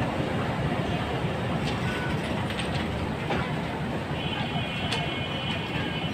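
Passenger train rolling slowly through the station, wheels rumbling on the rails with scattered clanks. A thin, high squeal joins about four seconds in.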